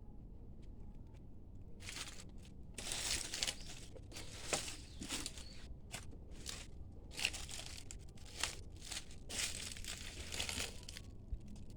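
Footsteps crunching through dry leaf litter: irregular crackly crunches, one or two a second, starting about two seconds in.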